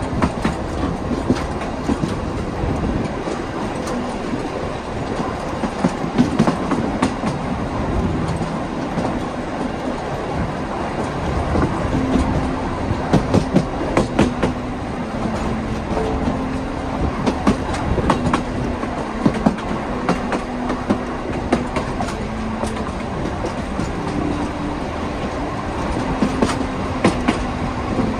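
Heritage metre-gauge train running along the track: a steady rumble of the carriages with irregular clicks of the wheels over the rail joints.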